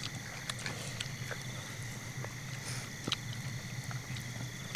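Night insects keep up a steady high-pitched trill, with scattered small sharp clicks over it.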